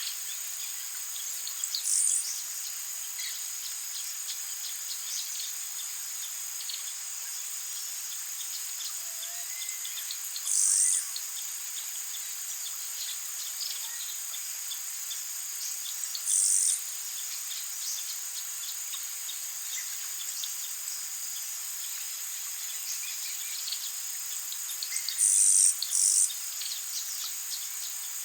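Steady high-pitched drone of tropical forest insects, with scattered faint bird chirps and five short, loud high calls, one each about 2, 10, and 16 seconds in and two close together near the end.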